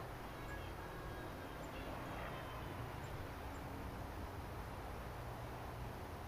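Steady outdoor background noise with a low rumble, and a few faint, short chirps from small garden birds in the first half.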